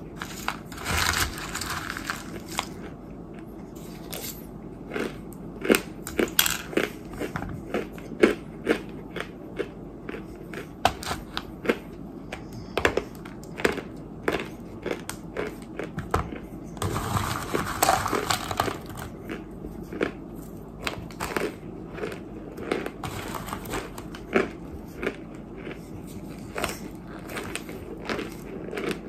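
Close chewing and crunching of dry, crumbly white clay chunks ("white dirt"), a steady run of sharp crunches with two longer hissy stretches, about a second in and about 17 seconds in.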